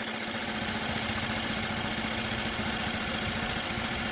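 Mercury 4/5 hp outboard motor idling steadily on its own, running after having been a no-start, with its idle still set a little high.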